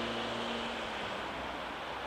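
Electric train running past, a steady low hum that fades out about a second in over a wash of rumbling noise.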